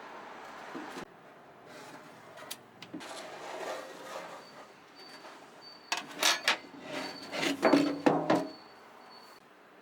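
Handling noises from the workshop build: faint rustling at first, then a quick run of loud scraping and knocking strokes from about six to eight and a half seconds in.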